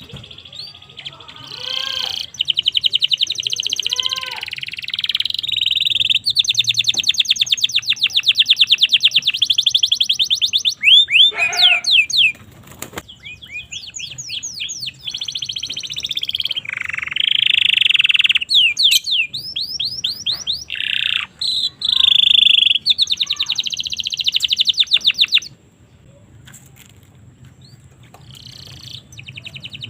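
Domestic canary singing long, rapid, high-pitched trills and rolls of quickly repeated notes. The song breaks off briefly about thirteen seconds in and again near the end, over a faint steady low hum.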